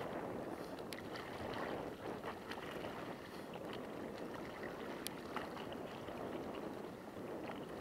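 Choppy lake water washing and splashing in a steady rush, with a few faint clicks.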